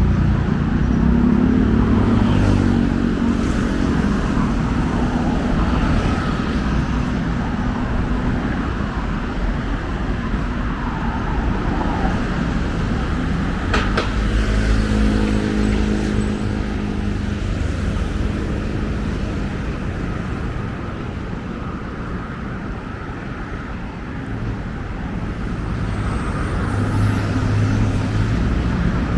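Busy road traffic: a steady rumble of car and truck engines and tyres going by. About halfway through a sharp click is heard, then a nearby vehicle's engine hums at a steady pitch for several seconds.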